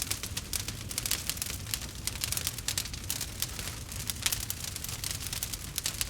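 Campfire crackling: many irregular sharp snaps and pops over a low rumble of burning.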